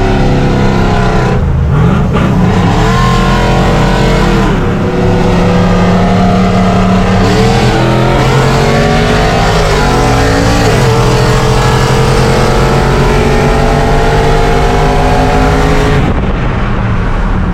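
Pickup truck V8 engine at full throttle in a roll race. It climbs in pitch through the gears with several upshifts, then backs off near the end.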